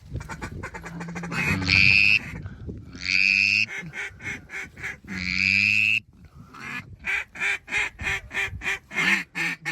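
A waterfowl reed call blown by a hunter: a few loud, long drawn-out notes, then a fast run of short notes about four or five a second near the end.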